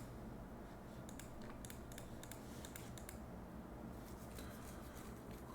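Faint scattered clicks over a low steady hum, most of them in the first few seconds.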